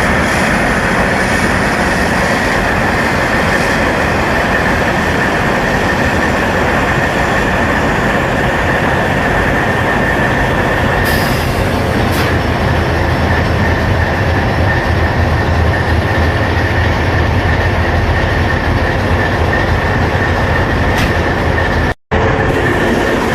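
Diesel locomotive engine in a runaway, racing out of control at overspeed: a loud, steady mechanical noise with a constant high tone running through it. The sound drops out for an instant near the end.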